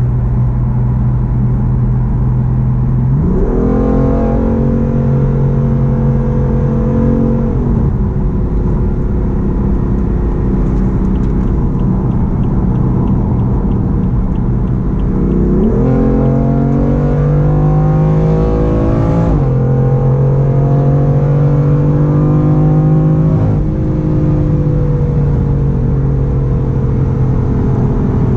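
BMW M4's twin-turbo inline-six running through an Akrapovic full-system exhaust while driving: it cruises steadily, then twice pulls up through the revs about 3 and 15 seconds in, the pitch dropping abruptly at each gear change before settling back to a steady cruise.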